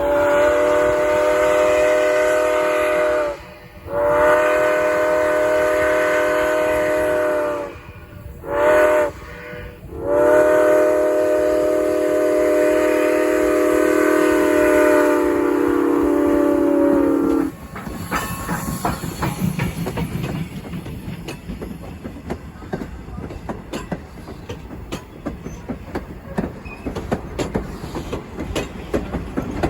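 Steam locomotive No. 475's chime whistle sounding the grade-crossing signal: two long blasts, a short one, and a final long blast. The whistle stops about 17 seconds in, and the train rolls past with wheels clacking over the rail joints.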